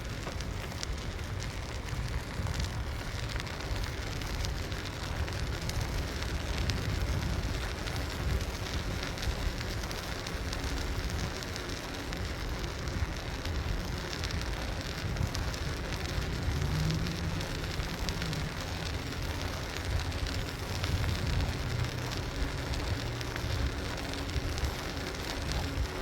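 Wind rumbling on the microphone of a moving bicycle, with a steady crackling hiss of tyres and road noise from riding over pavement.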